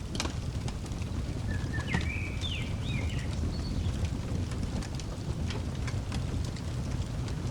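Wood fire in a fireplace crackling, scattered sharp pops over a steady low rumble. A bird chirps a few quick notes about one and a half to three seconds in.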